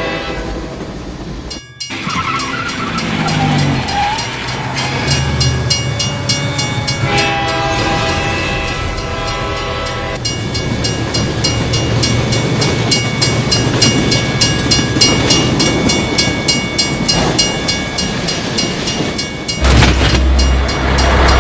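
Train passing with wheels clattering in a quick even rhythm, and horn blasts sounding a chord: one at the start that cuts off abruptly, another about seven seconds in. A loud low rumble comes in near the end.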